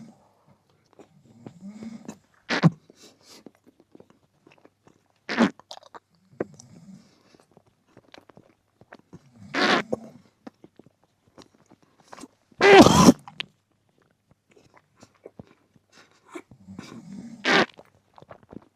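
Close-miked chewing of a piece of Dutch cheese: wet mouth and chewing noises broken by five short, louder smacks a few seconds apart, the loudest about two-thirds of the way through, with soft low hums in between.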